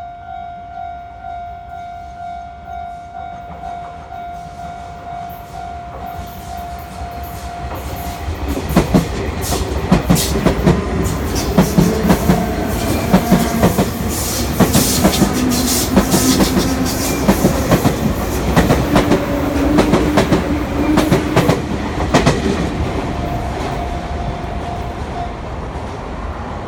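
Level-crossing warning bell ringing in steady repeated dings. About eight seconds in, a Sotetsu Line electric train passes over the crossing, its wheels clattering over the rail joints under a low hum that rises in pitch. The bell is heard faintly again near the end.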